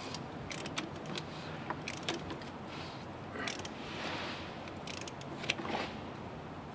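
Scattered metallic clicks and clinks of hand tools being handled during truck service work, over a steady background hum, with a short hiss about four seconds in.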